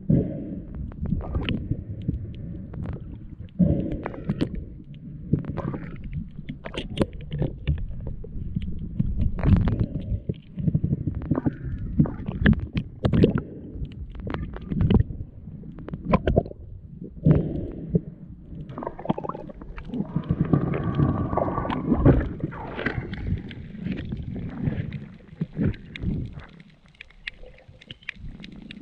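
Irregular water sloshing and gurgling, low and muffled, with scattered knocks throughout.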